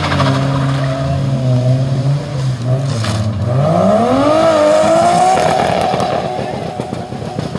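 A car engine holds a steady rev, then revs up sharply about three and a half seconds in as a red Nissan 200SX pulls out in a slide. Its tyres then squeal and spin, leaving the sound rough and noisy.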